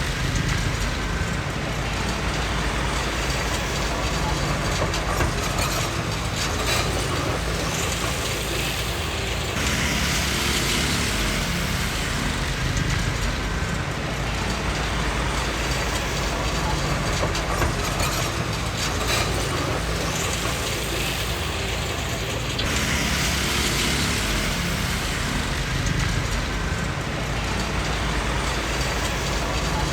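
Komatsu D20P bulldozer working: diesel engine running steadily with a low rumble and the clatter of its steel tracks. Twice a brighter hissing, scraping noise swells up over the engine for a few seconds.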